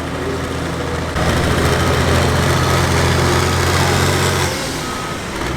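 Super Farm pulling tractor's turbocharged diesel engine running steadily. It gets suddenly louder and harsher about a second in, then drops back about a second before the end.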